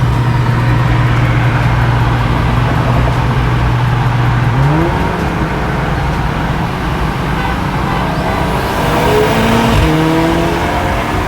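Car engine holding steady revs over loud road and wind noise, then accelerating hard from about five seconds in, its pitch climbing, with a gear change near the end as the revs drop and climb again.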